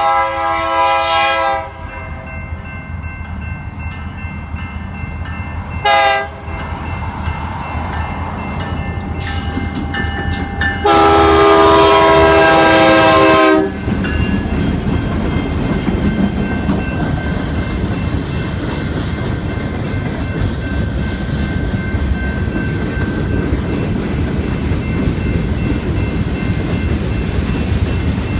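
Freight train's diesel locomotive sounding its multi-chime air horn: a blast ending about a second and a half in, a short toot about six seconds in, then a long, loud blast of nearly three seconds. After that, a steady rumble of the train rolling past, with the clickety-clack of wheels on the rail joints.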